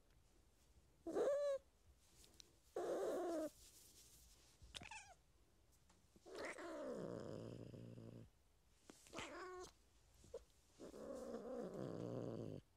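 Cat meowing: six separate calls with pauses between. Some are short meows, and a few are longer, lower drawn-out calls lasting about two seconds.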